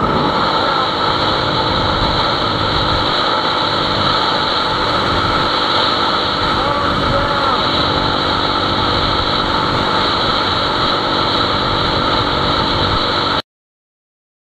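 Steady engine and road noise from a moving vehicle, loud and unchanging, which cuts off abruptly near the end.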